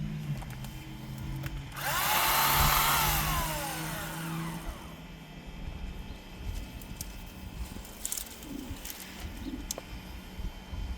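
Electric chainsaw run briefly about two seconds in: its whine rises, holds for about a second, then winds down over a second or so.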